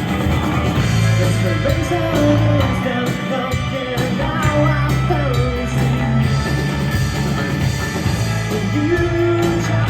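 Live rock trio of electric guitar, bass guitar and drums playing a song, with a singing voice carrying a gliding melody over the band.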